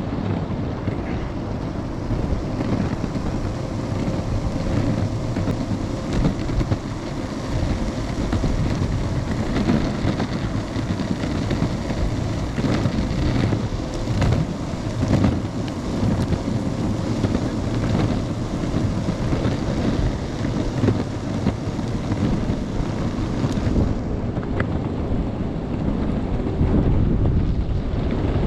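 Wind buffeting the action camera's microphone during an electric skateboard ride, over the rolling noise of the board's wheels on pavement. Short knocks come through every so often, and a faint steady whine sits underneath.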